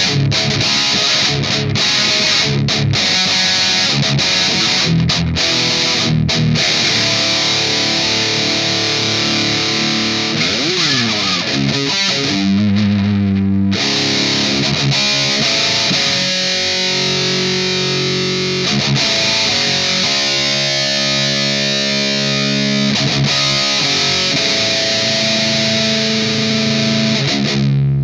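Distorted electric guitar playing a riff: choppy stop-start chugging in the first few seconds, a sliding pitch around ten seconds in, then held, ringing chords until it stops near the end.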